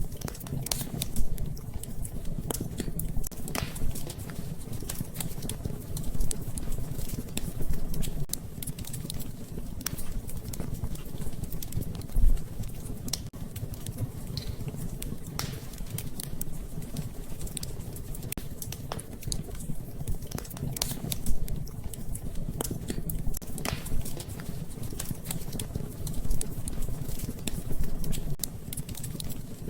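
Wood fire crackling in a fireplace: scattered sharp pops and snaps over a steady low rumble of the flames, with louder pops about a second in, about twelve seconds in and about twenty-one seconds in.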